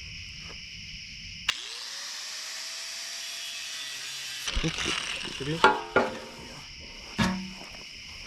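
Handheld power tool clicked on and run for about two and a half seconds, its motor whine rising then holding as it cuts the pipe of an old Miata muffler; after it stops, the steel pipe clanks and rings a few times as it is handled. Crickets chirp steadily throughout.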